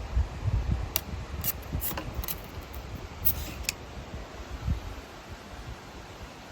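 A cat batting at a leafy tree branch: a handful of crisp clicks and rustles from the twigs and leaves, over low wind rumble on the microphone that eases near the end.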